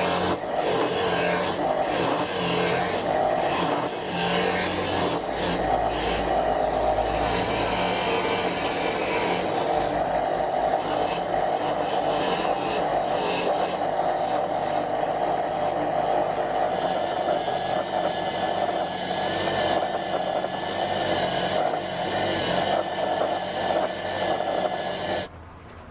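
Angle grinder running and working material: a steady, loud motor whine with grinding noise that cuts off near the end.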